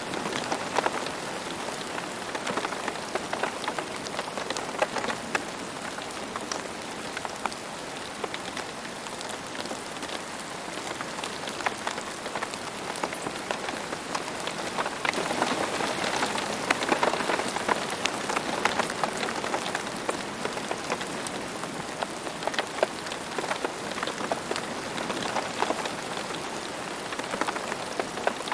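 Steady rain falling on a hard surface, dense patter of individual drop ticks over a continuous hiss, growing a little heavier for a few seconds around the middle.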